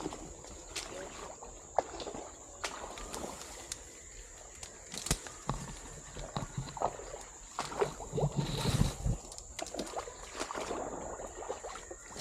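Hikers' footsteps squelching and sloshing through wet mud, in irregular steps with a few heavier thuds a little past the middle.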